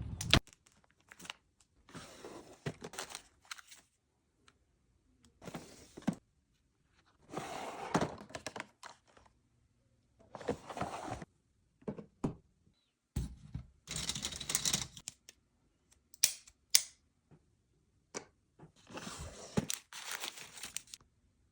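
Small items and their packaging being handled: bursts of rustling and crinkling a second or two long, with sharp clicks and taps between them.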